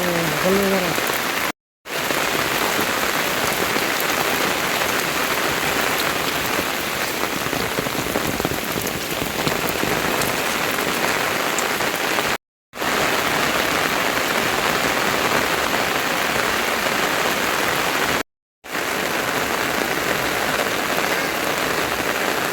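Steady rain falling as an even hiss, broken by three brief dead-silent gaps.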